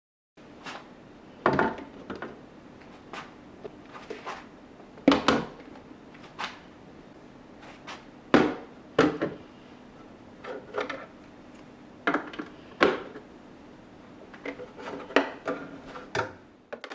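Hard storage containers and food items being handled and set down while a refrigerator is organised: a string of irregular clacks and knocks, some sharper and louder than others, over a steady low hum.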